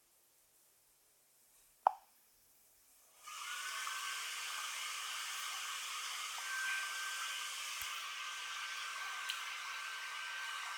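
A single short pop about two seconds in, then a steady hiss with a faint high tone that starts suddenly about a second later and runs on evenly.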